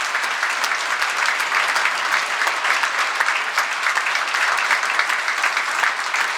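Theatre audience applauding steadily: dense, sustained clapping from many hands.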